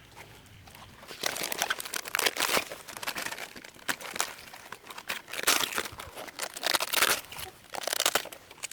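Dry rustling and crinkling from something being handled, coming in several bursts about a second long with short gaps between.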